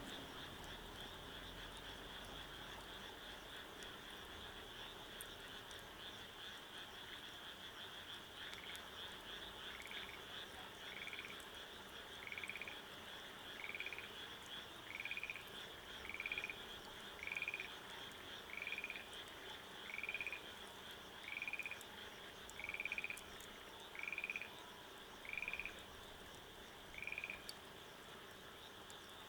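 A frog calling over and over, a short call about once a second from about eight seconds in until near the end, over a steady high-pitched chorus of frogs or insects.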